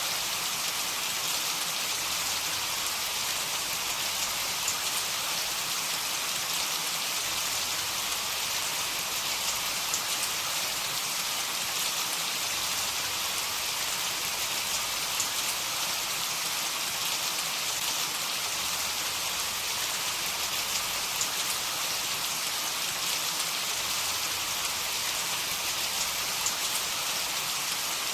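Heavy rain falling steadily: a dense, even hiss with small crackling drop ticks scattered through it.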